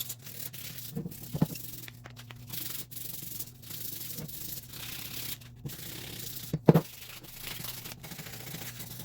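Hand sanding: repeated rubbing strokes of abrasive on a surface over a steady low hum, with a sharp knock about a second and a half in and a louder one near seven seconds.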